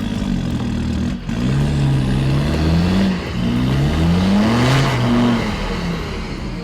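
Off-road 4x4 engine revving hard under load, its pitch climbing in two long rising surges, with a short drop about a second in.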